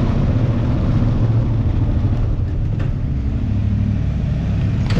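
Dual-sport motorcycle engine running steadily, a low rumble with a few faint clicks over it.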